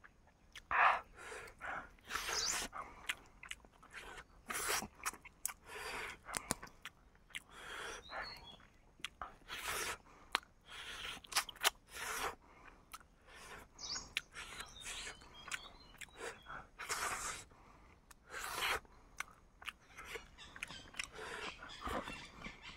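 Close-miked chewing and crunching of cooked chicken: irregular wet bites and crunches, several a second, with brief pauses between mouthfuls.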